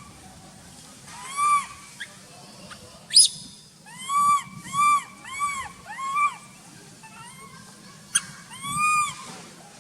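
A hungry baby macaque crying for milk: a series of short, high, arching cries, each rising and falling in pitch, with a quick run of four in the middle and a sharper squeal about three seconds in.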